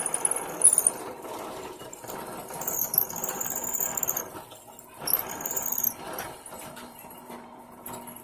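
A tool working metal, squealing high-pitched in three bursts, the longest about a second and a half, over a steady rasping noise that fades out about six seconds in.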